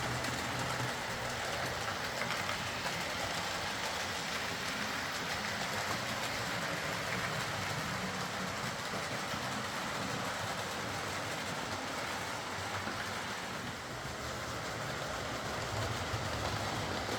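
Hornby OO gauge Class A4 model locomotive running steadily along the track, driven by the Ringfield motor in its tender, after repair of its valve gear and crank screw.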